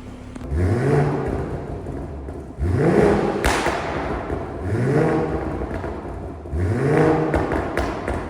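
BMW M240i's 3.0-litre turbocharged straight-six, on a full Milltek exhaust, blipped four times, about every two seconds, each rev rising and falling back to idle. Sharp crackles and pops from the exhaust's burble tune come through at the top of the revs and on the way down.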